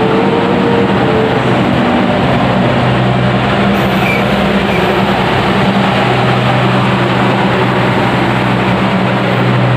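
Passenger coaches of the KA Singasari train rolling past a station platform as it pulls in: a steady rumble of wheels on rail, with a steady low hum underneath that grows stronger a couple of seconds in.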